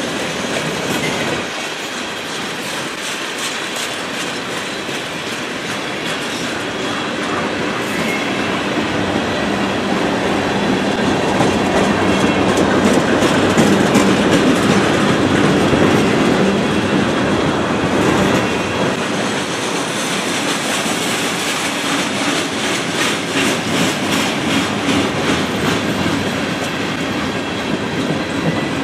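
Freight cars of a manifest train rolling past: a steady rumble of steel wheels on rail, with repeated clickety-clack as the wheel sets cross rail joints. It is loudest about halfway through.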